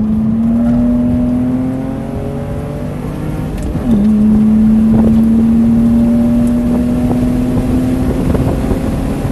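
BMW Z3's engine heard on board under hard acceleration out of a corner. The pitch climbs, drops sharply at an upshift about four seconds in, then climbs slowly again as the car gains speed, over a steady rush of road noise.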